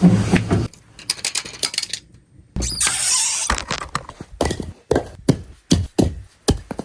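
Irregular knocks and thuds, with a brief rush of noise about three seconds in.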